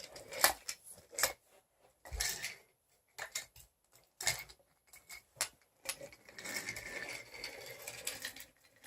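Wooden toy train pushed by hand along a wooden track: scattered clacks and knocks of wood on wood, then from about six seconds in a steady rolling rattle as the wheels run along the track.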